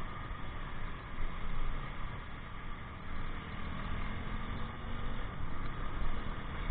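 Motorcycle running along a road, a steady mechanical noise over an uneven low rumble, with a faint steady hum appearing in the middle.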